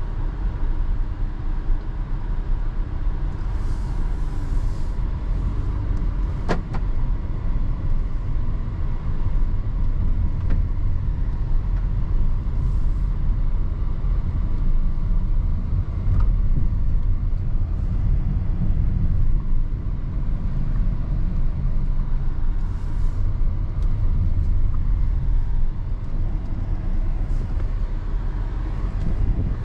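Car driving, with steady low road and engine rumble heard from inside the cabin. There is a single sharp click about six and a half seconds in, and a few brief hissy swells.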